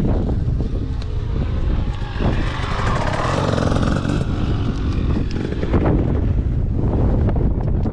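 Wind buffeting the microphone, with a dirt bike engine running that grows louder about three to four seconds in.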